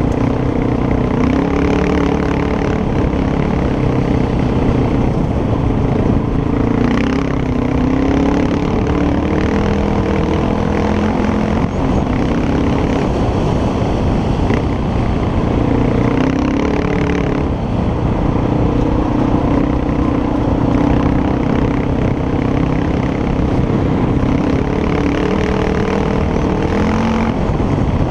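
Motorcycle engine running while riding, its pitch shifting up and down every few seconds with throttle and gear changes, over a steady rush of wind and road noise.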